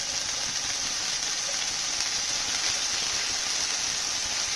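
Chicken skewers sizzling steadily in hot oil on a flat tawa over a low flame, a even high-pitched hiss of shallow frying.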